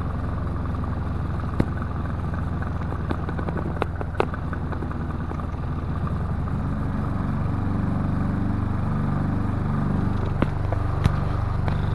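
Emerson 12-inch table fan (model 77646-SU) running on its low speed, just switched down from medium: a steady electric motor hum with air moving, a slow low warble coming in over the second half, and a few sharp ticks.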